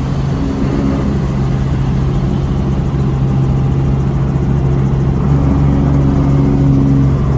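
Helicopter running steadily in flight, a constant loud drone with a strong low hum.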